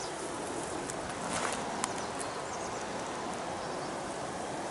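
Footsteps and clothing brushing through grass and low brush as people walk, with one sharp click just under two seconds in.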